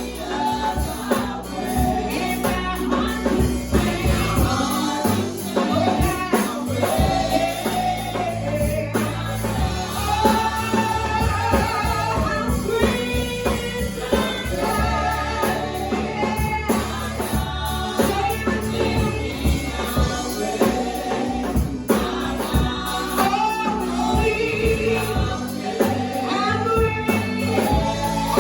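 Live gospel worship music: a choir and lead singers with band, steady bass and beat, and a tambourine.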